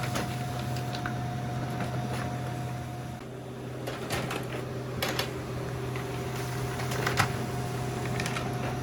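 Laser printer running through a long double-sided print job: a steady mechanical hum with a few sharp clicks. About three seconds in, its whine drops to a lower tone.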